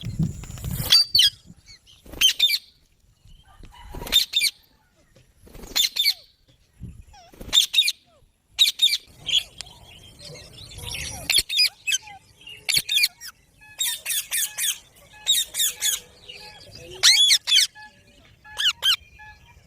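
Rose-ringed (Indian ringneck) parakeet calling with short, shrill squawks, repeated every second or two with brief pauses between.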